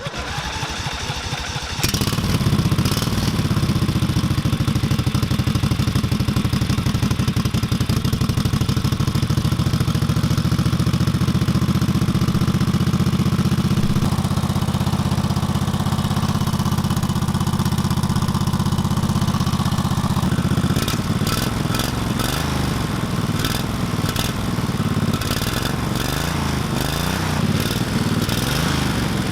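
V-twin minibike engine running steadily, its note changing and turning rougher with some clatter about two-thirds of the way through.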